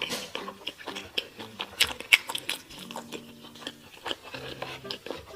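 Close-miked eating: irregular crisp crunches and bites with wet chewing in between.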